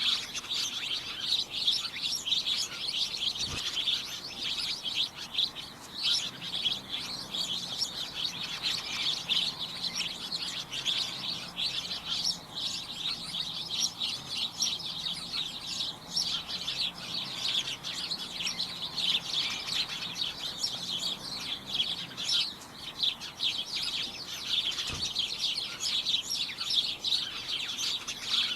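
A flock of small birds chirping and tweeting continuously, many short overlapping high calls at once.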